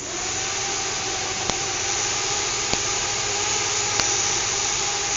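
A small fischertechnik electric motor starts up and runs steadily, driving the monorail carriage's rollers. It makes a steady whine over a rushing mechanical noise, with a faint tick about every second and a quarter.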